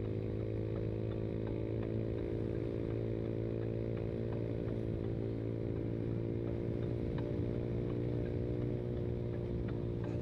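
Yamaha Mio Sporty single-cylinder four-stroke scooter engine running through an aftermarket VND exhaust, holding a steady, unchanging note.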